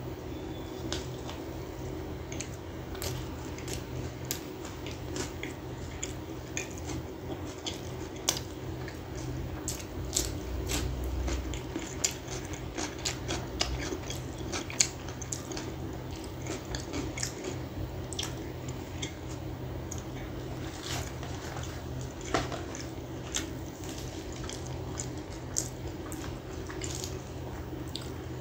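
Close-miked biting and chewing of butter naan that has gone a little hard: many small mouth clicks, crackles and wet chewing sounds, over a steady low hum.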